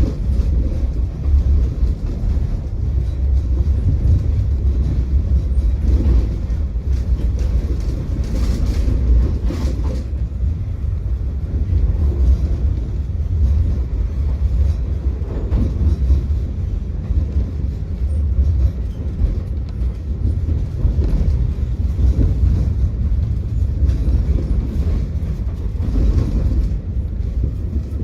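Tram running on its rails: a steady low rumble, with a few brief sharper rail noises about a third of the way in.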